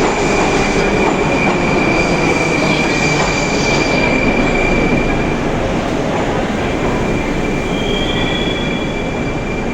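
Rusich (81-740/741) articulated metro train running on the rails with a steady, loud rumble and a high wheel squeal held on one pitch, easing slightly toward the end.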